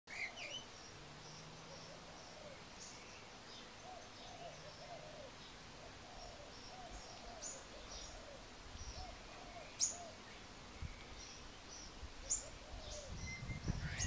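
Faint bird chirps: a run of short, low, arched notes about two a second, with thin high chirps and a few sharp downward-sweeping high whistles above them. A low rumble builds near the end.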